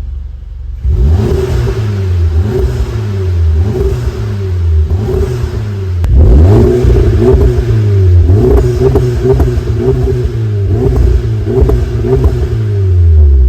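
Volkswagen Golf GTI Performance's turbocharged four-cylinder engine through a one-off aftermarket exhaust, accelerating hard: the pitch climbs and drops several times, with a second loud run starting about halfway through.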